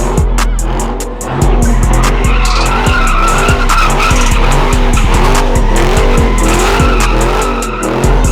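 Car tires squealing under power, over a music track with a deep bass line and a steady beat.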